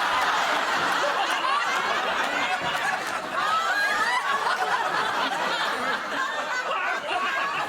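Several people laughing hard at once, a loud continuous tangle of overlapping laughs.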